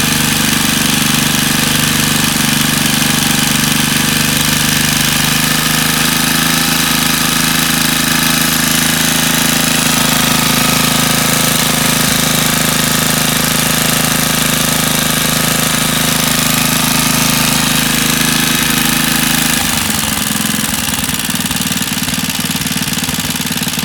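Suffolk 98cc single-cylinder two-stroke engine running steadily after a carburettor clean. About twenty seconds in it drops to a slower, more uneven beat, its slow running still needing adjustment.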